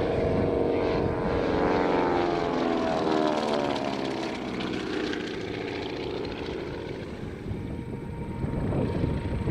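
Beech CT-128 Expeditor's two Pratt & Whitney R-985 Wasp Junior radial engines and propellers passing by, the engine drone dropping in pitch as the plane goes past and then fading away.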